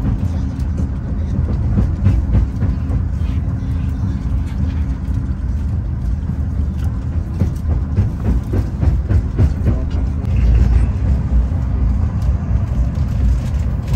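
Steady low rumble and hum of a high-speed passenger train running at speed, heard inside the carriage, with scattered faint clicks.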